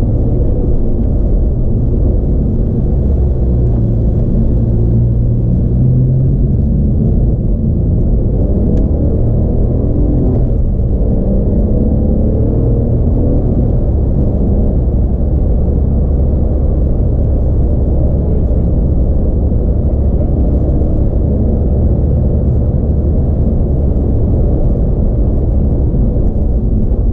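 Porsche 911 (997) Carrera's naturally aspirated flat-six running steadily under way with road rumble, heard from inside the car. The engine note falls and then climbs again about ten to twelve seconds in.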